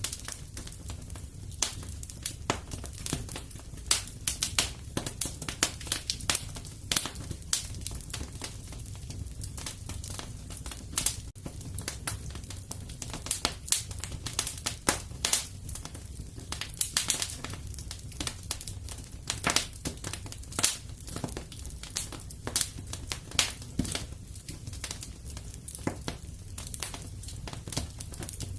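Wood fire in a fireplace crackling: irregular sharp pops and snaps over a low steady rumble.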